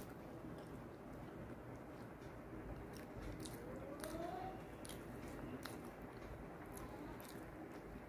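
Quiet chewing with the mouth closed, and the soft wet squish of fingers mixing rice with curry on a plate, with scattered faint small clicks.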